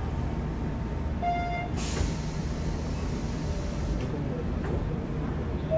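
Hanshin 8000 series electric train heard from inside: a steady low rumble, a short beep about a second in, then a sudden burst of air hiss just after it, typical of the train's pneumatic air brakes or door equipment.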